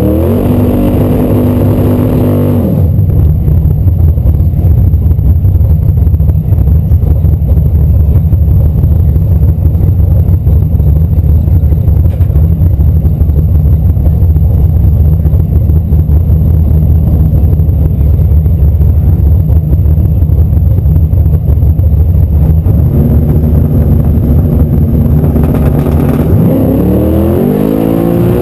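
Buick Grand National's engine heard close up from its hood. Revs are held high for about two seconds at the tail of a burnout, then it drops to a loud, steady idle rumble as the car creeps forward. Near the end the engine is revved up a few times in rising pulls while staging.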